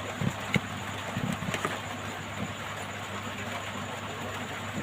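Steady low electrical hum and hiss, with a few light taps and knocks in the first two seconds.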